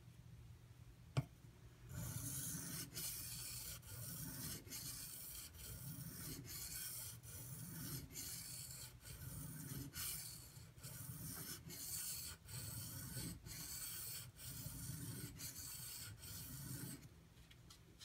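AUS-8 steel tanto knife blade being stroked back and forth on a Shapton Pro waterstone, a steady scraping rub at roughly one and a half strokes a second. A single sharp knock comes just before the strokes begin.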